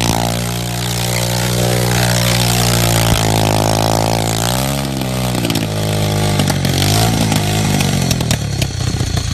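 A homemade drift trike's 225cc engine running at steady revs. Its pitch dips and recovers twice around the middle, then drops to a lower, uneven beat near the end as the throttle comes off.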